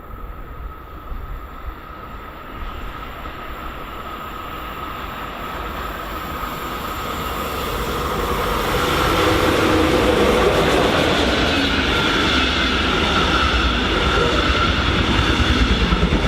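A train approaching, growing steadily louder over about eight seconds, then running past at full loudness.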